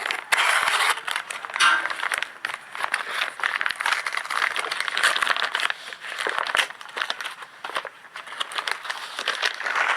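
Packaging being opened by hand: plastic and cardboard crinkling and rustling with irregular crackles and scrapes.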